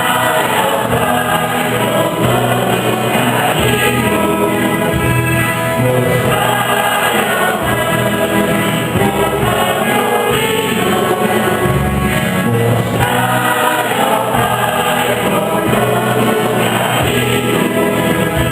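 Church choir singing a liturgical hymn at Mass, with sustained voices and steady bass notes underneath.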